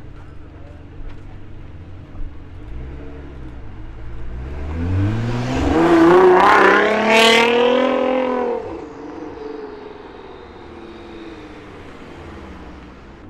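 Nissan GT-R R35's twin-turbo V6 accelerating hard past close by, its pitch climbing to a loud peak. The note then cuts off sharply and fades as the car drives away.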